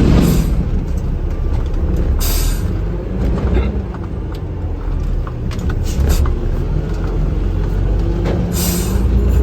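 Vehicle interior while driving: a steady engine and road drone, with a few short hisses at the start, about two seconds in and near the end.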